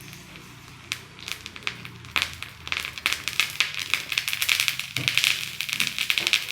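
Potassium permanganate and glycerin reacting: scattered sharp crackles begin about a second in and grow quickly denser into continuous crackling and sizzling as the reaction takes off.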